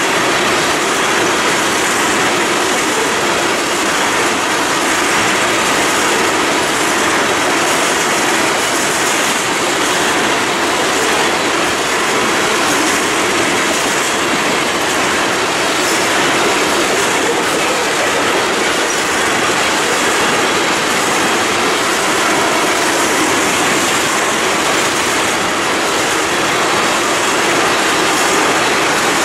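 A freight train of steel tank cars rolling steadily past close by: a continuous rumble and clatter of wheels on rail.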